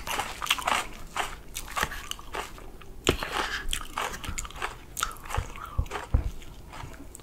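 Close-miked chewing of soft chocolate sponge cake with whipped cream: many short, moist smacking and clicking mouth sounds. A few soft knocks near the end come as a metal fork cuts into the slice on the plate.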